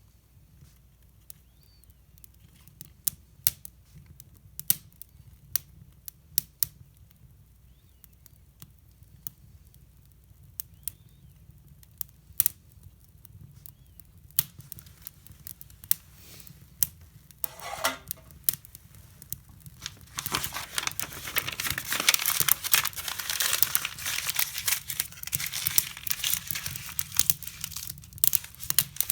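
Wood fire in a hybrid fireplace crackling: scattered sharp pops at first, then about two-thirds of the way through a dense, louder run of rapid crackling as the newly lit fire takes hold.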